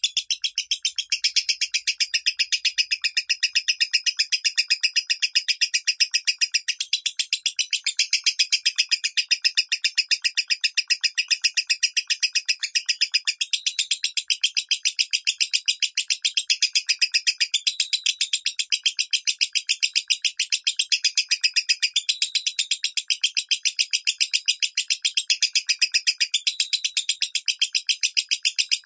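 Lovebird singing the 'minor' song: an unbroken stream of rapid, high chirps, many a second, steady throughout.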